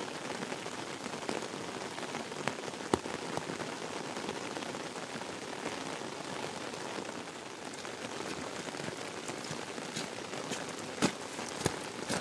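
Steady rain falling, with scattered sharp taps of single drops, a few louder ones near the end.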